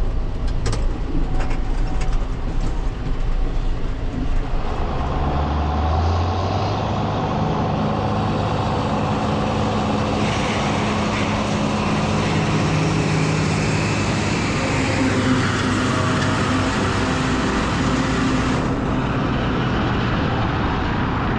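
Farm tractor machinery running steadily, with a few knocks in the first seconds and the engine note shifting about six seconds in. A brighter hiss rides over it through the middle of the stretch.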